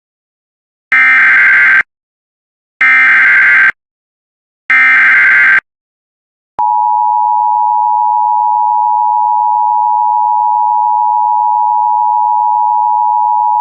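Emergency Alert System SAME header: three short bursts of warbling data tones, each about a second long and two seconds apart. They are followed about six and a half seconds in by the steady two-tone EAS attention signal, which holds. Together they mark the start of a new alert.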